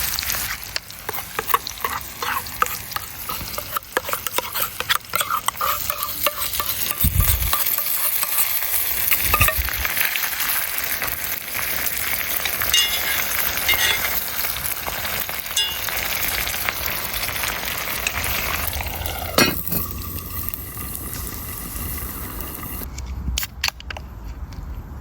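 Food sizzling in a frying pan over a campfire, with a utensil stirring and scraping in the pan in many short clicks. The sizzle thins out near the end.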